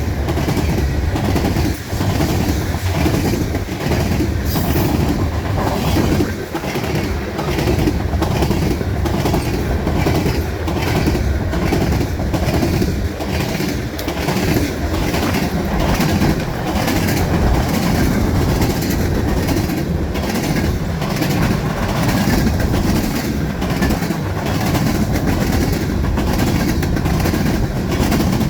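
Freight cars of a passing manifest train rolling by, their wheels clacking over the rail joints in a steady repeating rhythm.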